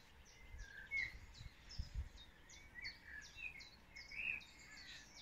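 Faint birdsong: a series of short, high, falling chirps about twice a second, with a few lower warbling notes among them.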